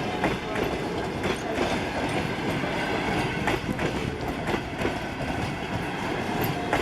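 An arriving passenger train's coaches rolling past, their wheels clacking irregularly over rail joints.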